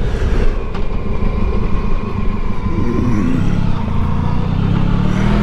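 Motorcycle engine running under way with wind rumble on the helmet microphone; the revs dip about three seconds in, then climb steadily as the bike accelerates.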